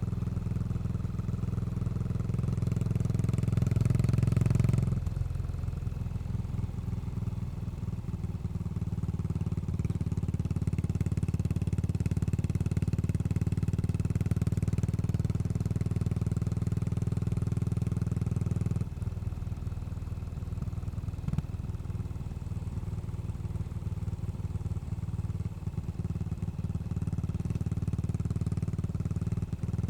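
Yamaha SR400's air-cooled single-cylinder engine running through a Goods tapered cone slip-on muffler while riding. It grows louder over the first few seconds, drops off abruptly about five seconds in, runs steadily, and eases again a little before two-thirds of the way through.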